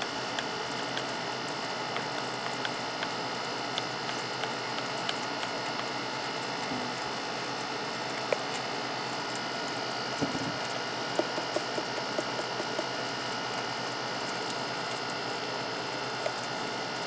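Steady electrical hum with scattered light clicks and taps of a measuring spoon working spice out of a container, a sharper tap about eight seconds in and a cluster a few seconds later.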